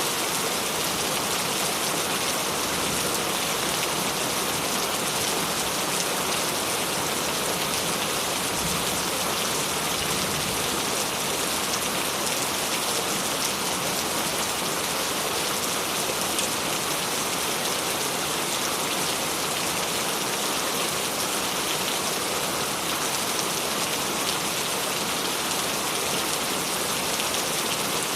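Steady rain falling and pattering on a surface, a dense even hiss full of fine drop ticks.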